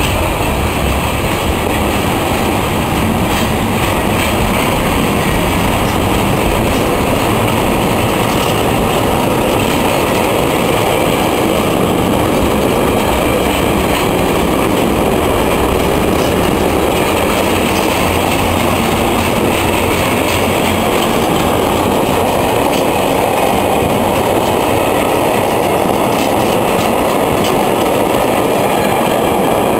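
Freight train of intermodal container wagons passing close by: the steel wheels run on the rails with a steady, loud noise that holds at one level throughout.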